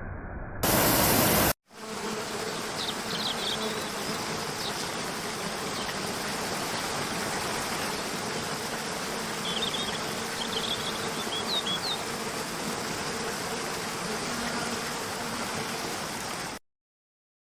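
A loud rush of noise lasting about a second near the start. After it comes a steady rushing of water with a faint low hum and a few short, high bird chirps. It cuts off suddenly near the end.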